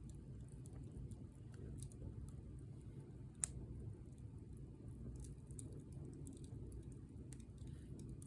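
Bonfire burning, wood crackling with scattered faint ticks and one sharper pop about three and a half seconds in, over a low steady rumble.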